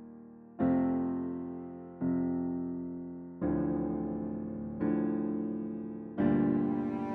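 Piano playing slow held chords, a new chord struck about every one and a half seconds, each fading before the next.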